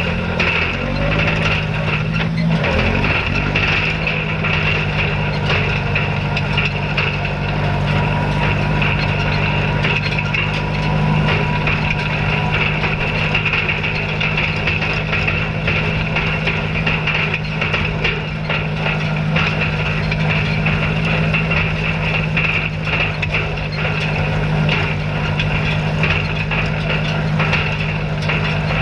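Tractor engine running steadily under load, with the dense clatter of a hay rake working. The engine speed dips briefly about two seconds in, then holds steady.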